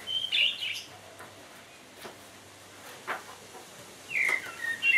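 A small bird chirping: a short cluster of high chirps at the start and a string of sliding, up-and-down chirps near the end, with quiet room tone between.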